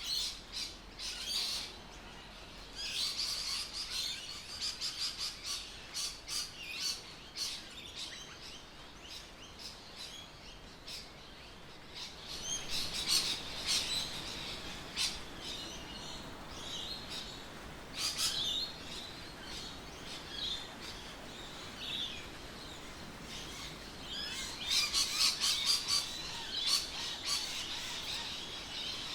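Birds chirping and calling in bursts of quick, high chirps, with quieter stretches between the bursts.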